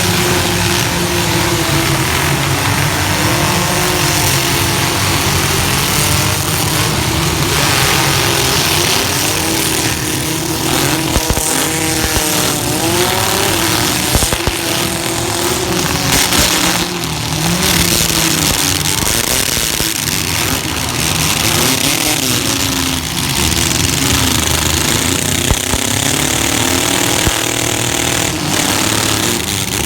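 Compact trucks' engines revving hard in a demolition derby, several at once, pitch rising and falling as they accelerate and back off, with sharp crashes of metal now and then as trucks collide.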